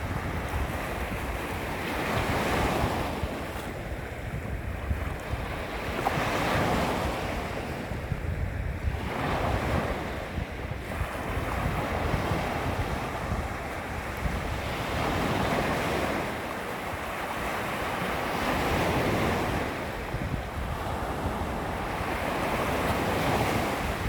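Small waves lapping against a shoreline, each wash swelling and fading every few seconds, with a low wind rumble on the microphone underneath.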